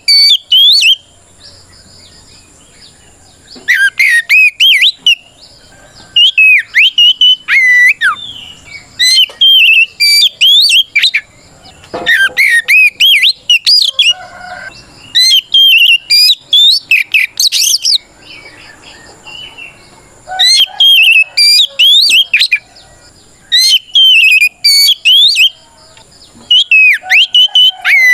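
Oriental magpie-robin (kacer) singing loud, rapid runs of sweeping whistled notes, in bursts of one to two seconds about every two to three seconds. This is full-throated fighting song, calling out a rival.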